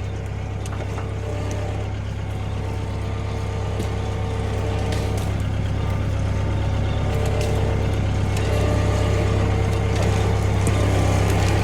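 Engine of the machine moving the sawmill running steadily, its low drone slowly building louder, with a few faint clicks over it.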